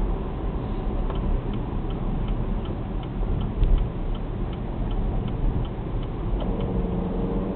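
Turn-signal indicator ticking steadily inside a Camaro's cabin, about three clicks a second, over the low drone of the V8 and the road. The ticking stops near the end as a steadier engine tone comes in.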